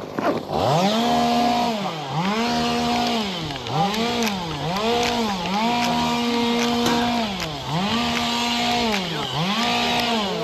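Small two-stroke chainsaw engine, freshly oiled, revved repeatedly: the note climbs, holds briefly at high revs and drops back, about once a second.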